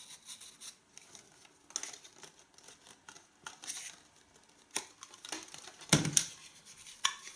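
Handling of small plastic vacuum-cleaner accessories: light rustling and clicks, with a few sharper plastic knocks, the loudest pair about six seconds in.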